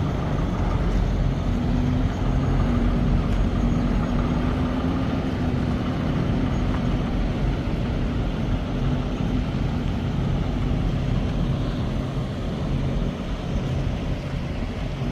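Truck running down the road: steady engine drone and road rumble, with a faint steady hum riding over it.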